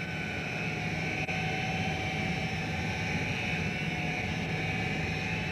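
Steady mechanical drone with an even whine and hum, the running noise of a fishing boat's engines and machinery.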